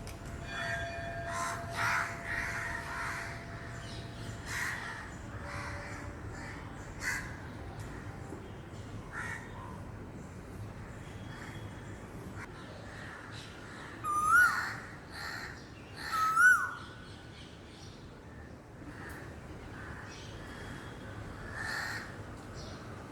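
Asian koel (koyal) calling: two loud rising whistled calls about two seconds apart past the middle, among many short, harsh, raspy bird calls.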